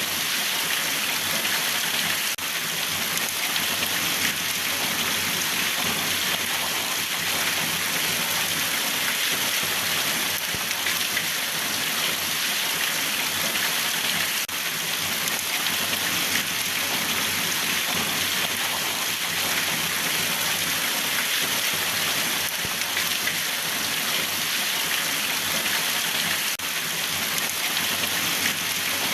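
Steady rain falling and pattering on a surface, an even, unbroken hiss of drops.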